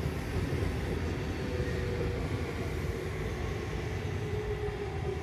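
Electric commuter train running past on the line: a steady rumble of wheels on the rails, with a faint motor whine that comes in about two seconds in and slides a little lower in pitch.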